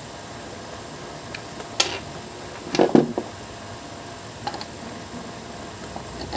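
Small hard objects being handled: a few sharp clicks and one louder clatter about three seconds in, over a steady low hiss.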